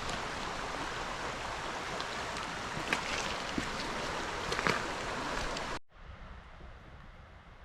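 Steady rush of flowing river water with a few small clicks, cut off abruptly about six seconds in, leaving a much quieter outdoor background.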